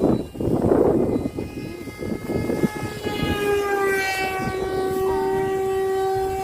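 Homemade model airplane's motor droning in flight, a steady pitched hum whose pitch bends a little about four seconds in.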